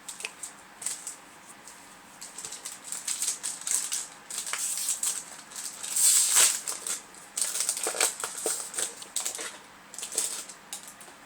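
Foil booster pack wrappers and trading cards being handled: a crinkling, papery rustle that comes and goes, loudest for about half a second about six seconds in.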